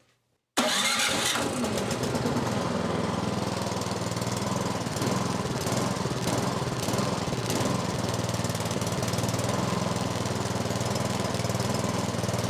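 Snowblower's small gas engine started cold on choke at half throttle with its electric starter: it comes to life abruptly about half a second in and then runs steadily. Its carburetor has just been cleaned, and the mechanic suspects the pilot jet may still be partly plugged.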